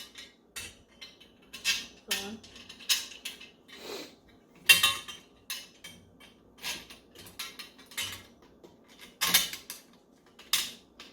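Parts of a budgie cage clinking and knocking as they are fitted together and secured, in irregular sharp clicks with louder clanks about 5 and 9 seconds in.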